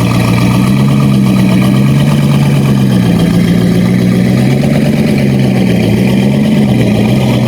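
Car engine idling, its pitch rising and falling slightly as the revs waver.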